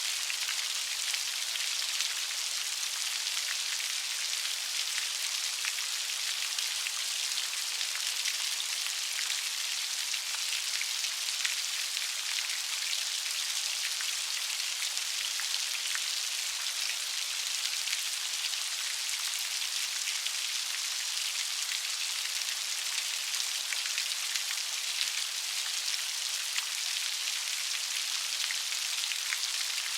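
Light rain falling steadily: an even hiss of many small drops with fine scattered patters, no thunder.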